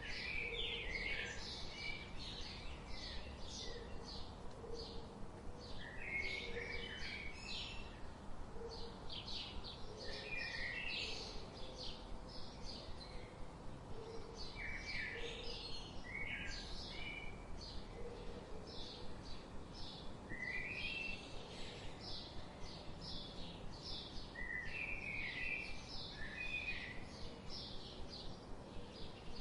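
Birds chirping steadily: dense short high chirps several times a second, with lower chirping phrases every few seconds and faint low notes now and then.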